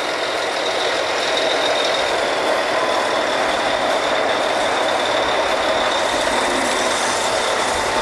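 Drilling rig machinery running steadily while drilling: a loud, even mechanical noise with a steady high whine over it.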